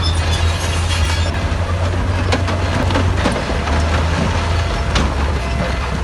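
Crawler bulldozer working: its diesel engine runs with a steady low drone, while the steel tracks clank and squeak and scattered knocks come through on top.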